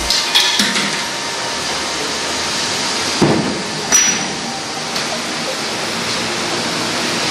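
Tools knocking and clinking during motorcycle servicing: a few sharp strikes, two near the start and two more about halfway through, over a steady rushing hiss.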